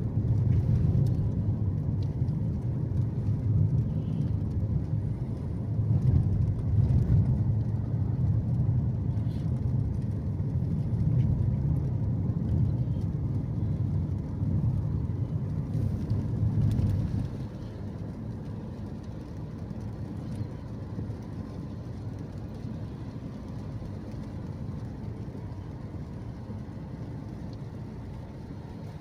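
Car driving: steady low engine and road rumble, which drops noticeably about two-thirds of the way through and carries on quieter.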